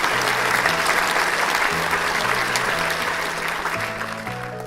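Applause, a dense clatter of clapping over soft background music, swelling in the first second and fading out near the end.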